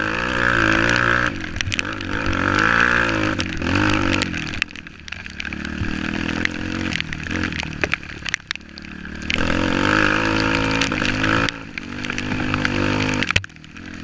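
Off-road motorcycle engine running under load, its pitch rising and falling as the throttle opens and closes, dropping back several times.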